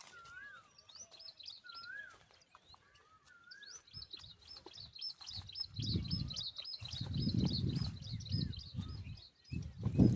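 Small birds calling: a rising-and-falling whistle repeated about once a second, then a fast run of high chirps, several a second. From about halfway, a low rumbling noise swells and fades a few times beneath the chirps.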